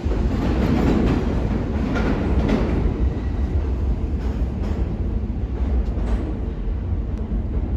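New York City subway train running through the station: a steady low rumble with scattered sharp clicks of wheels over rail joints, easing off slightly toward the end.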